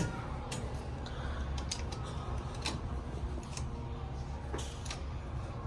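Steady low hum of a large indoor hall, with a few light irregular clicks and knocks scattered through it.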